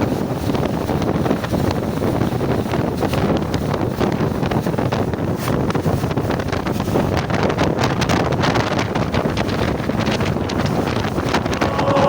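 Wind buffeting the microphone on a moving boat, a steady rushing noise with frequent gusty thumps and a wash of water and boat noise underneath.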